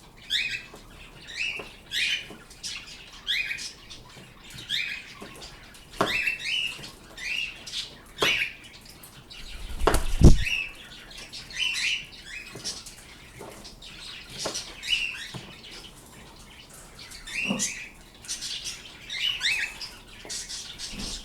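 Pet birds chirping over and over, short high calls about one or two a second, with a few sharp knocks in between; the loudest, a low thud, comes about ten seconds in.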